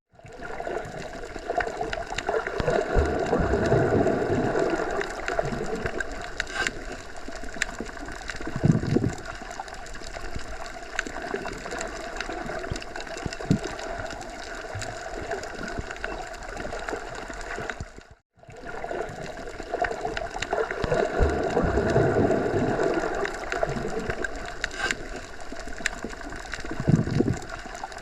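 Soft wind moving through forest trees: a steady rushing that swells and eases in gusts. It drops out briefly about eighteen seconds in and starts over as a repeating loop.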